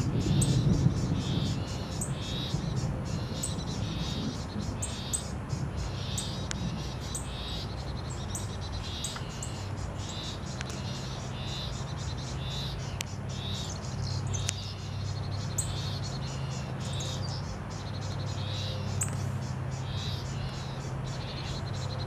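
Birds calling in the tree canopy: a short high chirp repeated about once a second, with thin high ticks, over a steady low hum.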